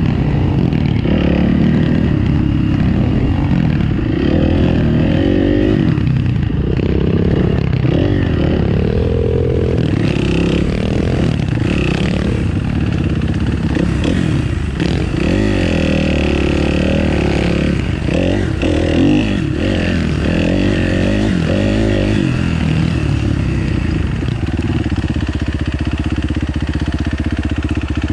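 Motorcycle engine running, revving up and down again and again, then settling to a steady, even run near the end.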